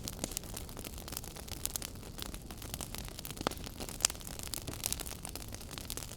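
Wood fire burning in a fireplace, crackling with many sharp pops over a steady hiss; the loudest pop comes about four seconds in.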